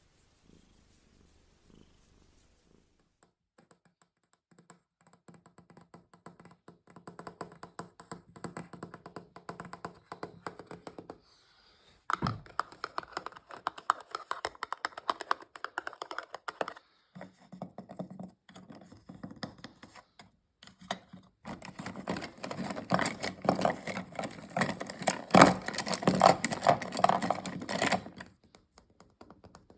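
Fast ASMR tapping on objects, a dense run of rapid taps. It starts a few seconds in and comes in several spells with short pauses, and it is loudest near the end.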